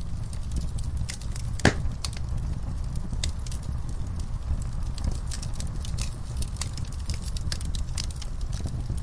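Wood fire crackling in a fireplace: a steady low rumble from the burning logs with many scattered sharp pops and snaps, one louder pop about one and a half seconds in.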